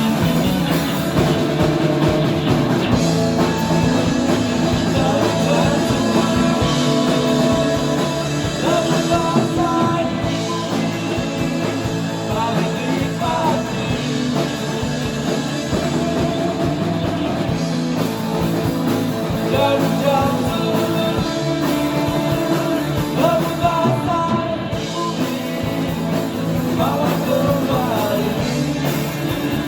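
Band playing rock music live, with guitar, drums and a singing voice coming in over the instruments at times.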